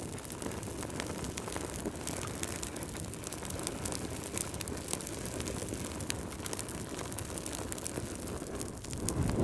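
Wood fire crackling: a steady low rush of burning with many small sharp pops and snaps scattered through it, and a brief low swell near the end.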